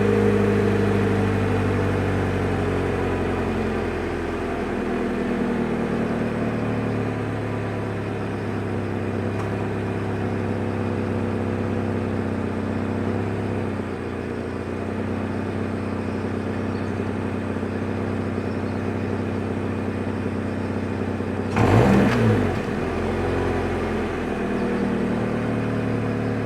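First-generation Subaru BRZ's FA20 flat-four idling through the stock exhaust on a cold start, the fast idle easing down and getting quieter over the first several seconds. Near the end comes a brief louder burst.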